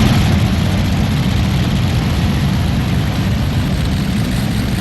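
Allison V12 aircraft engines of a modified pulling tractor running loud and steady, with a heavy low rumble.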